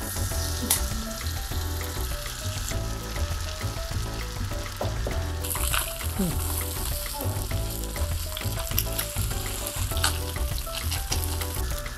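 Salmon fillets sizzling and crackling as they fry in melted soy butter in a frying pan, skin side down first. The sizzle grows brighter about halfway through, with background music underneath.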